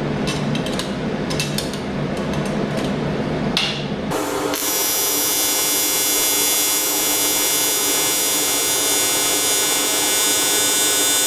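AC TIG welding arc on aluminum: a steady, high buzz that starts suddenly about four seconds in and holds to the end. Before it, a low hum with a few clicks.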